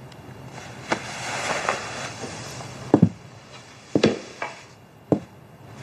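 Four sharp knocks spread over a few seconds, each dying away quickly, over a faint hiss.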